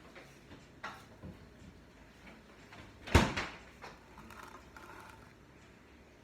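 Light clicks and taps of kitchen items being handled, with one loud knock about three seconds in.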